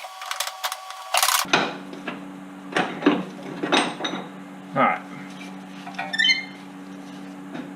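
Metal tools and suspension parts clinking and knocking: rapid clicking for the first second and a half, then several separate metallic clinks and knocks over a steady low hum.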